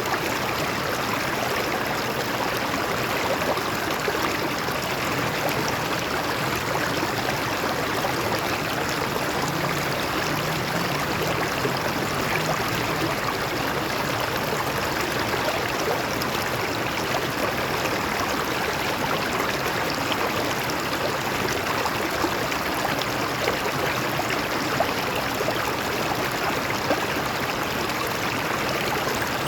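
A stream of water flowing and splashing over rocks in a steady, unbroken rush, with small splashes scattered through it.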